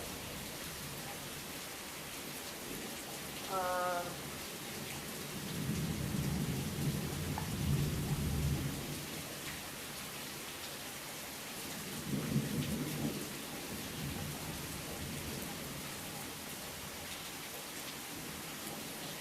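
Heavy rain falling steadily, with two low rumbles of thunder, a longer one from about six to nine seconds in and a shorter one about twelve seconds in. A brief high chirp sounds about four seconds in.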